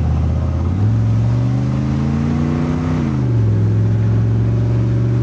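Chevy truck's turbocharged 6.2-litre V8 diesel pulling under acceleration: the engine pitch jumps up just under a second in and climbs slowly, falls about three seconds in, then holds steady.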